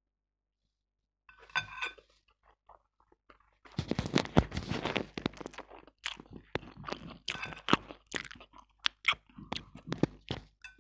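Close-up chewing of black bean noodles: wet mouth clicks and smacking that start after a quiet moment and become a near-continuous crackle for the second half.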